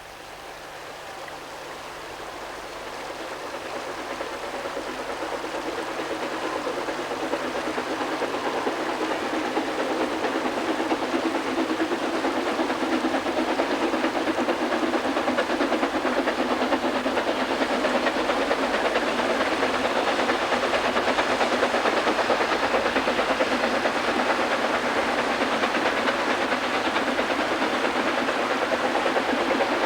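Narrow-gauge Fairlie steam locomotive working a train, a rapid stream of exhaust beats and steam hiss that grows louder over the first ten seconds or so as it draws near, then holds steady.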